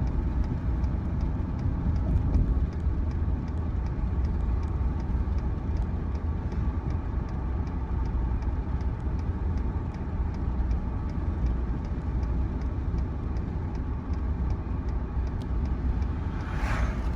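A motor vehicle running steadily: a continuous low engine and road rumble, with faint, regular ticking.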